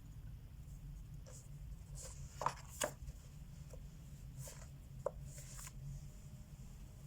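Wax crayon rubbing over a colouring-book page in short scratchy strokes, with a few sharp clicks, the loudest about two and a half and five seconds in.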